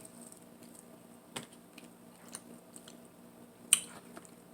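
A person chewing food close to the microphone, with a few short sharp clicks; the loudest comes about three-quarters of the way in.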